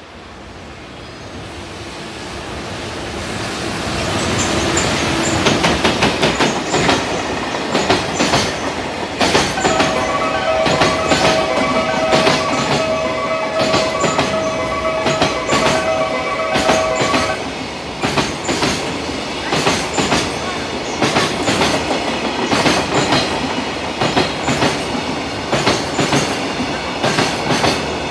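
Freight train of container wagons passing close by. It grows louder over the first few seconds, then keeps up a dense run of wheel clicks and clacks over the rail joints. A steady squealing tone runs for several seconds midway.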